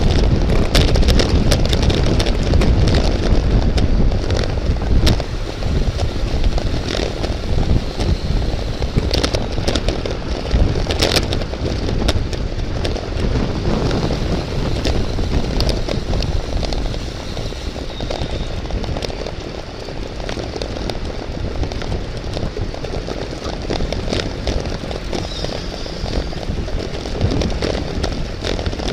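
Wind buffeting a camera microphone on a racing bicycle, a steady loud rumble, with scattered sharp clicks and rattles from the bike.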